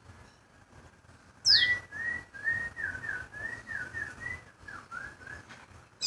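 A red songbird whistling: a quick high note sweeping down about one and a half seconds in, then a run of about a dozen short slurred whistles for about four seconds, with a brief high chirp at the end.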